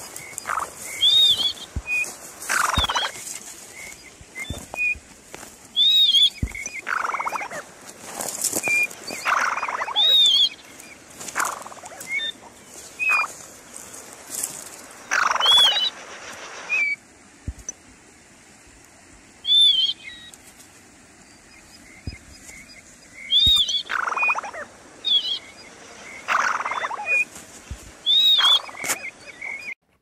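Short high bird calls, repeated every few seconds, with louder bursts of rustling among dry grass and reeds between them.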